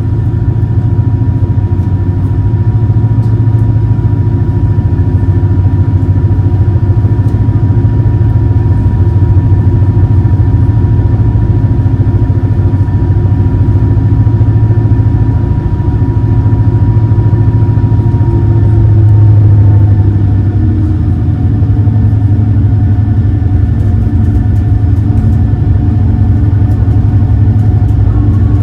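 Super Jet Miyajima high-speed passenger boat's engines running steadily under way, a deep hum with a thin whine above it. About twenty seconds in the drone swells briefly, the whine slides down and fades, and the engine note shifts.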